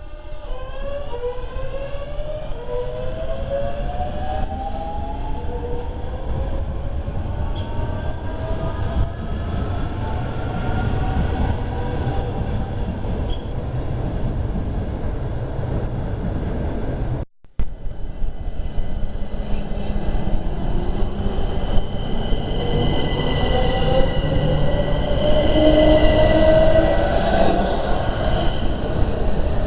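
Southeastern electric train's traction motors whining, rising in pitch as it accelerates, over a steady rail rumble. After a short break about 17 seconds in, a train runs through again with motor whine and rumble, louder near the end.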